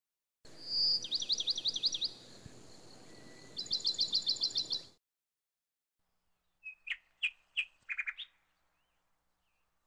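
Birdsong: a bird sings fast, repeated trilled phrases, one just after the start and another about three and a half seconds in, then gives a few short chirps around seven to eight seconds in. The song cuts in and out abruptly.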